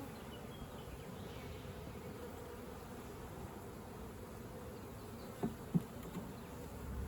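Honeybee colony buzzing steadily around an opened hive during a frame inspection, with two brief louder sounds near the end.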